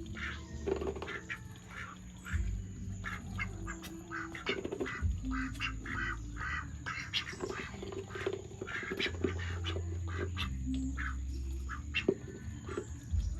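Domestic ducks quacking in short, repeated calls, over a low rumble.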